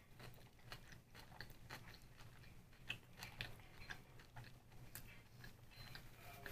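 Faint closed-mouth chewing of a homemade vegetable sushi roll, with many small, irregular wet mouth clicks.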